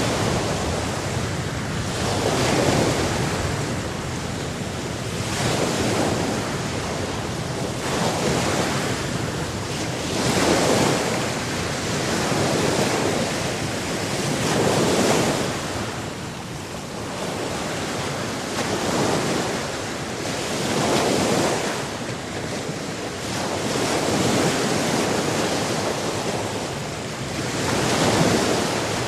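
Sea waves washing onto a shore, a steady rushing that swells and falls back every few seconds.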